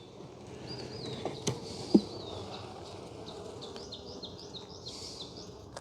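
Honeybees buzzing in a steady hum around an open hive, with a light knock about two seconds in.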